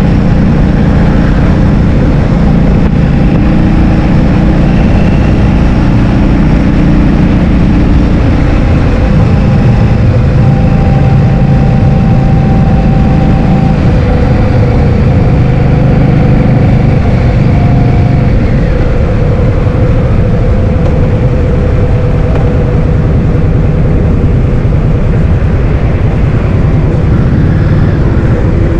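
Heavy wind noise buffeting the microphone of a moving scooter, with a steady low rumble and faint engine tones underneath that shift pitch now and then.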